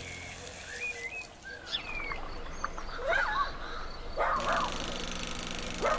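Birds calling: scattered short chirps and gliding whistles, then two louder, harsher calls, one about four seconds in and one at the end.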